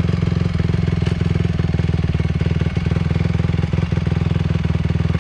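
Dirt bike engine idling steadily, a fast, even run of pulses that holds level without revving.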